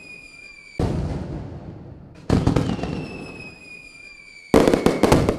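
Fireworks: three loud bursts about a second and a half apart, each trailing off in a crackle, over a thin high whistle that slowly falls in pitch.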